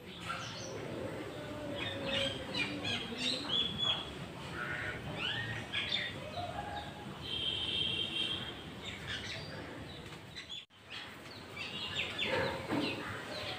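Songbirds chirping: many short high calls and brief trills, one held whistle a little over seven seconds in, over a faint outdoor background. The sound cuts out for a moment about ten seconds in.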